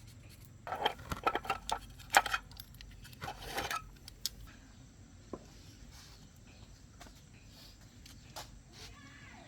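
Metal tools or parts being handled, clinking and rattling: a quick cluster of clanks in the first four seconds, then a few scattered clicks.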